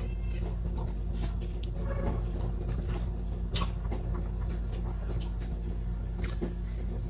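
Close-up eating sounds: soft chewing and small mouth clicks while eating boiled sweet potato, with a sharper click about three and a half seconds in, over a steady low hum.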